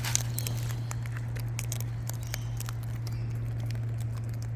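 A steady low hum with faint, scattered short clicks and scratches, mostly in the first half.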